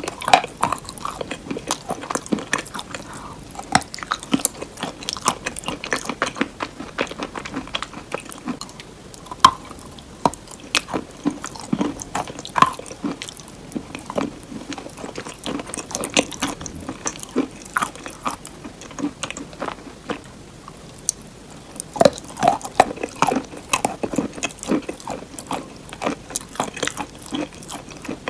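Close-miked biting and chewing of a crunchy hard cheese: a dense run of crisp crunches and clicks, busiest about three-quarters of the way in.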